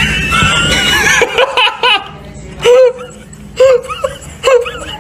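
A person laughing in short repeated bursts about once a second.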